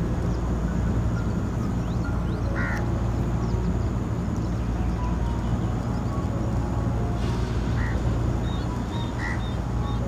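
Wetland water birds calling: three short calls, about two and a half, eight and nine seconds in, with fainter high chirps, over a steady low hum.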